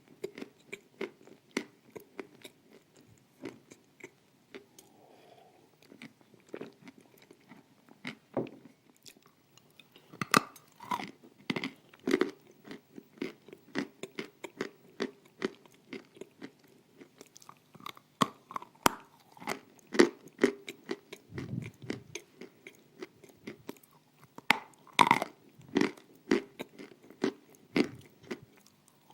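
Close-up crunching and chewing of hard, dry pieces of edible clay: many sharp, irregular bites and crunches.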